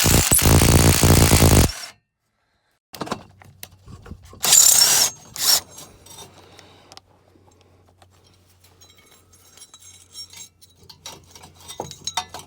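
Tool cutting through a rusted exhaust pipe: a loud burst of about two seconds that cuts off suddenly. Later come two short loud bursts and faint metallic clinks over a steady low hum.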